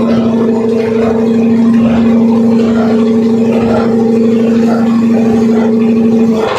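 A boat's horn sounding one long, steady low blast, cutting off sharply near the end.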